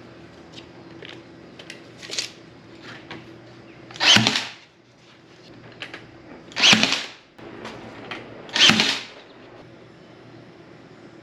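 Power drill running in three short bursts, with a smaller burst before them, over a steady low background hum.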